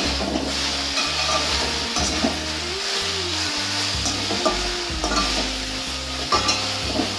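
Slices of elephant apple frying in mustard oil in a metal kadai, sizzling steadily, while a metal slotted spatula stirs them with repeated scrapes and clicks against the pan.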